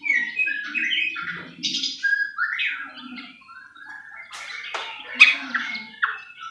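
White-rumped shama (murai batu) singing a fast, varied song of whistled notes and rising and falling glides, broken by sharp, harsh clicking notes about four to five seconds in.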